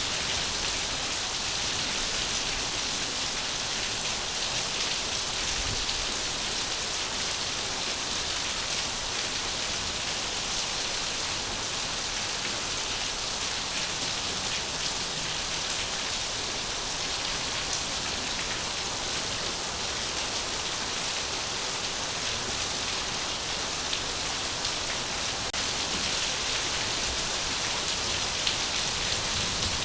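Steady rain falling, an even hiss of many drops that never lets up.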